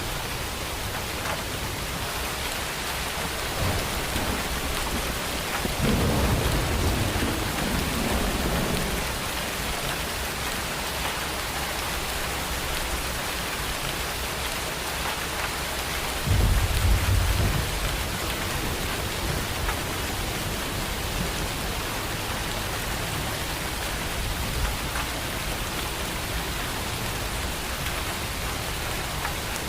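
Steady rain falling, with two low thunder rumbles: one about six seconds in that lasts a few seconds, and a louder one about sixteen seconds in.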